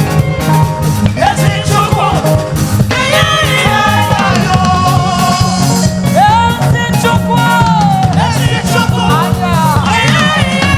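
Live gospel praise music: a band with drum kit and bass plays a steady groove while a voice sings long, wavering, held lines over it.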